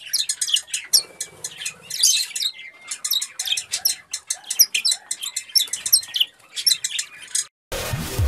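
Small birds chirping and squawking in a dense run of rapid, short, high calls that stop abruptly near the end, where electronic music with a bass line begins.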